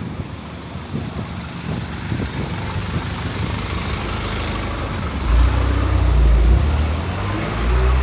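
Motor vehicle engine running close by on a town street, growing much louder about five seconds in, with its pitch rising near the end.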